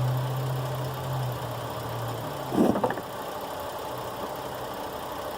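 A vehicle engine idling with a low steady hum that drops in level about two seconds in, with a short clatter of handling noise just after.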